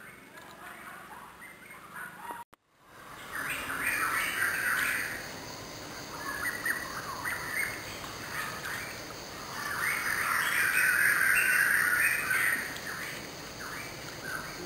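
Birds calling in repeated bursts of chattering chirps, loudest a little over halfway through, over a faint steady high drone. The sound drops out for a moment about two and a half seconds in.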